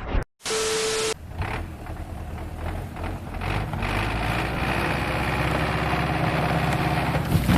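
An engine idling steadily, after a brief burst of hiss with a steady hum near the start.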